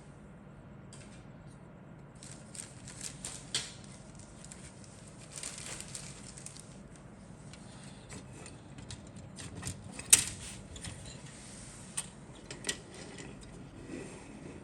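Small hard objects being handled: scattered light clicks and rustling, with one sharp click about ten seconds in, like plastic model kit parts and packaging moved about.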